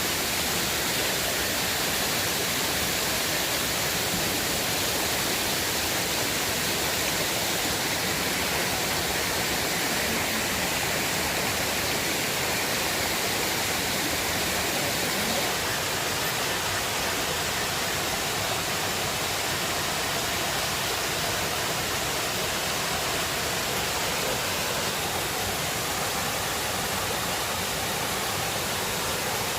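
River water rushing steadily: an even, unbroken sound of flowing water.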